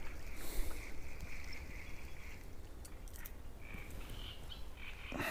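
A small hooked roach splashing briefly at the water's surface as it is pulled in, followed by a few light clicks from the fishing tackle.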